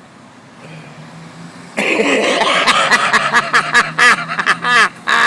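A person's loud non-speech vocal sounds, a rapid string of short cries, starting about two seconds in after a quieter stretch with a low steady hum.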